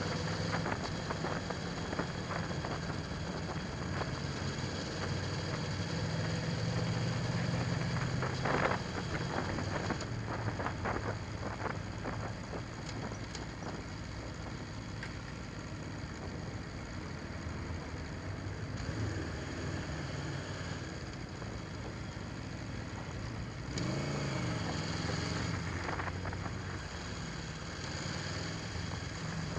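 Aprilia Tuono V4 1100 Factory's V4 engine running under a steady rush of noise, its pitch shifting up and down, with a brief rise and fall about 24 seconds in and a short cluster of clicks about 9 seconds in.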